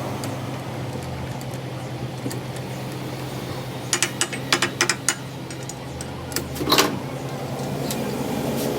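A steady machine hum, with a few sharp clicks and knocks about halfway through and again a little later.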